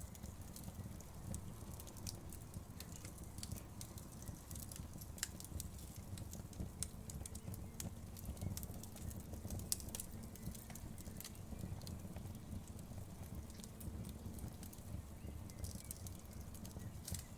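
Fireplace fire crackling: irregular sharp pops and snaps scattered over a steady low rumble of the flames.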